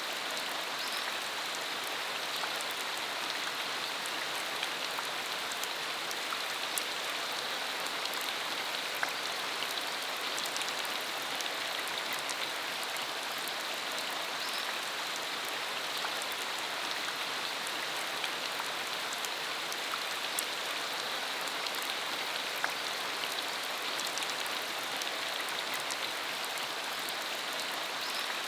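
Steady rain falling on a dirt country road: a dense, even hiss with many small, sharp drop impacts scattered through it.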